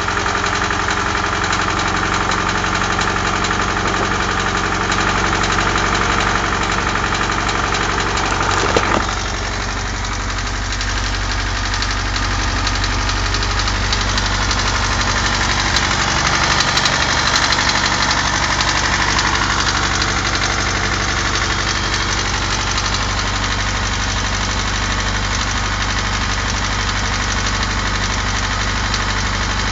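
UZAM inline-four car engine running with a steady knock. A sharp click comes about nine seconds in, after which the sound settles slightly quieter.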